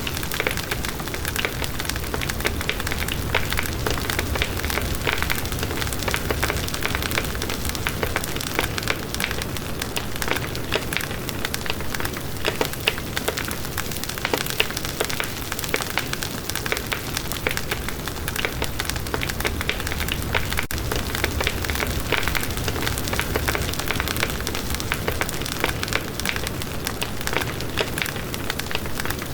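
Campfire burning, the wood crackling steadily with many small snaps over a low, even rush of flame.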